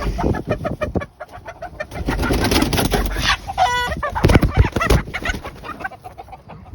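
Chickens clucking and squawking as they squabble over a scrap of food, with one clear, drawn-out pitched call a little past the middle. Low rustling and bumping close to the microphone runs underneath.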